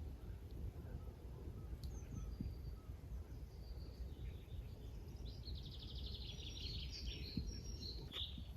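Small birds chirping over a low steady rumble, with a fast trill of rapidly repeated high notes in the middle of the stretch.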